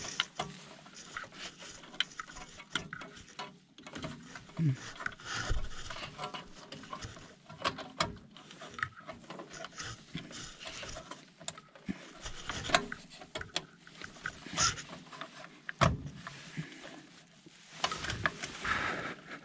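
Irregular clicks, taps and rubbing from handling a furnace control board, as wire connectors are pushed back onto its pins.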